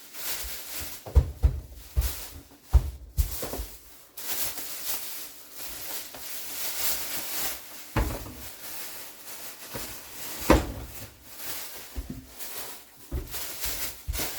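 Knocks, clatter and rustling of groceries being unpacked and put away, with cupboard or drawer doors opening and closing. Several sharp knocks stand out, the loudest about ten seconds in.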